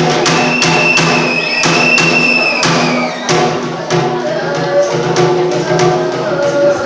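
Bitchu kagura accompaniment: a run of sharp drum strikes under a high held note and lower sustained tones.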